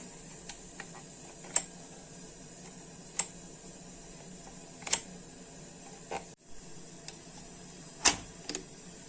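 Sharp clicks and lighter taps from the socket's switch and parts being handled, with four loud clicks a couple of seconds apart, over a steady hiss.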